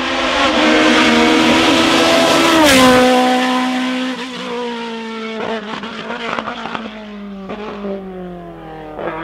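A hillclimb race car passes at full throttle. It is loudest about three seconds in, where the engine note drops sharply in pitch as it goes by, then fades as it runs away up the road, with a string of sharp pops and crackles.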